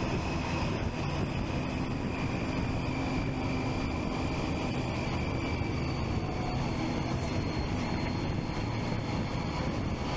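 Triumph Street Triple 675's inline three-cylinder engine running steadily while riding, with road and wind noise.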